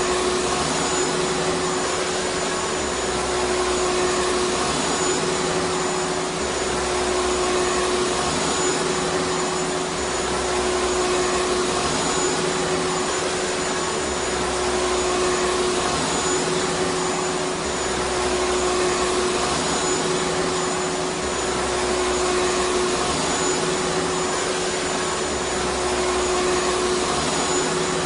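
Vacuum cleaner running continuously: a steady rushing hiss of air with a constant motor whine, and a low rumble that swells and fades every few seconds.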